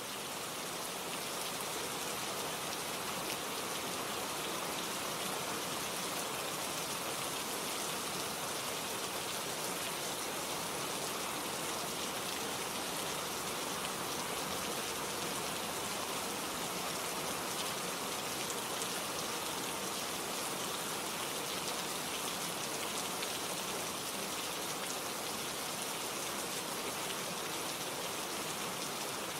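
Steady rain falling, an even, dense patter of drops that swells up over the first second and then holds level.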